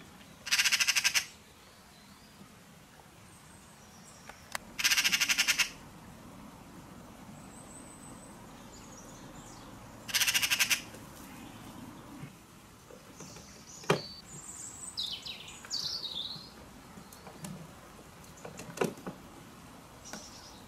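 Birds calling: three loud, harsh rattling calls about five seconds apart, then softer chirps and a sharp click in the second half.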